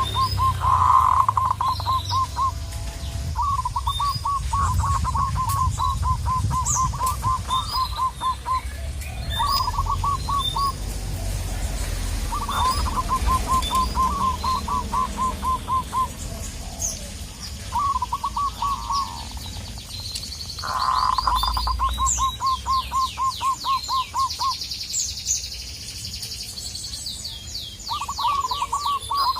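Zebra dove (perkutut) giving its rapid staccato cooing song: trains of quick, even notes lasting one to five seconds, repeated in about seven bouts with short pauses. Small birds chirp faintly in the background, most busily in the second half.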